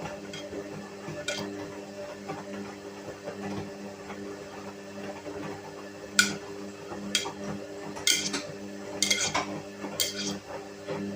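Whirlpool washing machine running, its motor humming steadily through a wash. In the second half about six sharp, ringing metallic clinks cut in.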